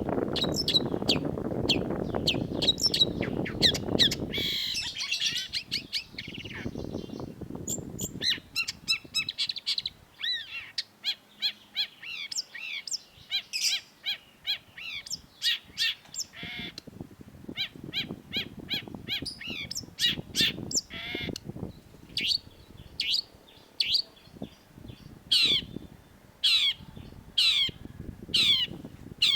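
Long-tailed shrike singing a fast, varied song of sharp chips and whistles, ending in a run of repeated downward-sweeping notes about two a second. A low rumble of background noise sits under the song at the start and again in places.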